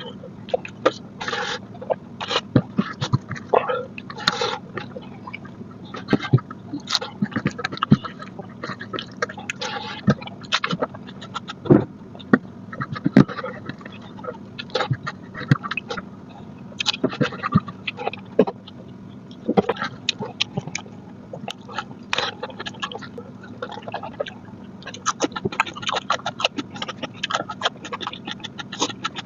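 Close-miked chewing and lip-smacking while eating mutton curry with rice: a dense, irregular run of wet clicks and smacks over a low steady hum.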